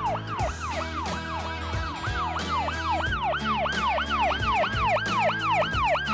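Police siren in a fast yelp, its pitch sweeping up and down about three times a second, over background music.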